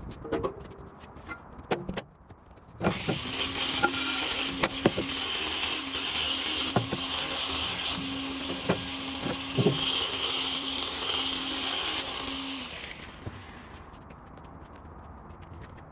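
A power tool starts about three seconds in and runs steadily for about ten seconds, a hiss over a steady hum with scattered knocks, then stops. A few separate knocks come before it.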